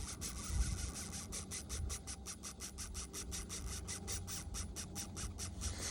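Fishing reel ticking in a quick, even rasp of about five or six clicks a second, starting about a second in, while a hooked fish is being played up through the ice hole.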